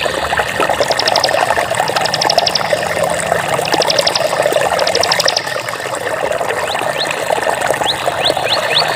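Running water trickling steadily. Four short, high-pitched trills of rapid pulses, each about half a second long, sound over it in the first half.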